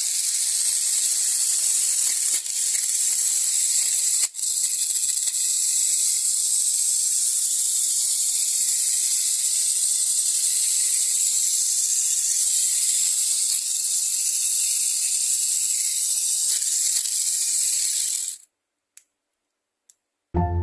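A Mini 4WD toy car's small electric motor and gears running flat out: a steady, high-pitched whirring whine that cuts off abruptly about 18 seconds in.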